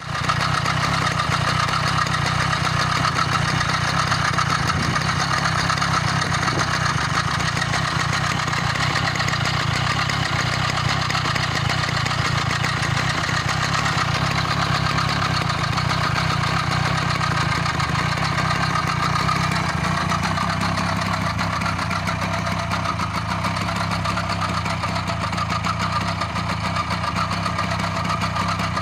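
Small two-stroke scooter engine with a Yamaha Jog cylinder and piston kit idling steadily, the note settling slightly about twenty seconds in. It is being run in so the freshly fitted cylinder and piston can bed in.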